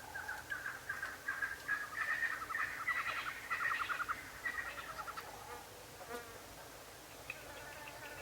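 A wild animal giving a fast series of buzzy, chirping calls that builds quickly, holds for a few seconds and fades out about halfway through; fainter calls start again near the end.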